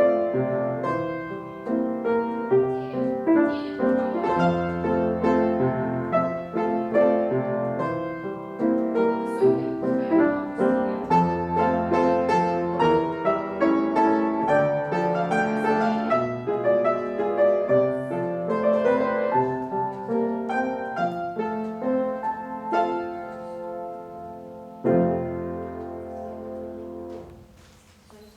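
Piano playing a classical-style ballet-class accompaniment, a steady run of notes that ends on a chord about 25 seconds in and dies away.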